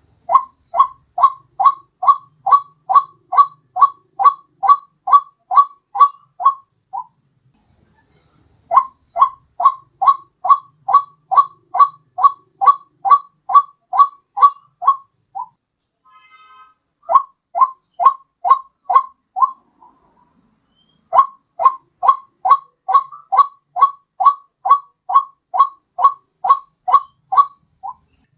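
Lure recording of a white-breasted waterhen calling: a fast run of identical clipped notes, about three a second, in four bouts separated by short pauses.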